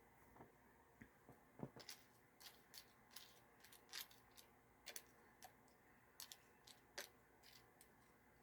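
Faint, irregular clicks and crunches of someone eating yogurt with crunchy mix-ins, against near silence.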